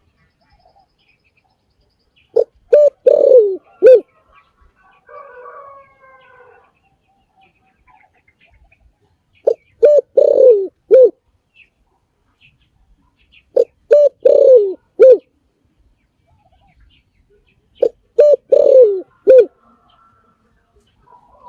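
Spotted dove cooing: four phrases about four seconds apart, each a run of short coos with one longer note that falls in pitch. A fainter, wavering call is heard between the first and second phrases.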